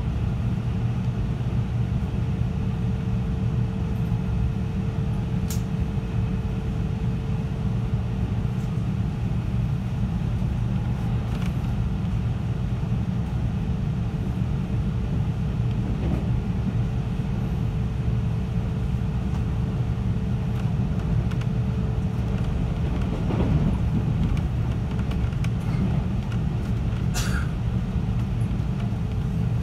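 JR 313 series electric train running along the line, heard from inside the carriage: a steady low rumble of wheels on rails with a faint steady hum, and a couple of sharp clicks, the strongest near the end.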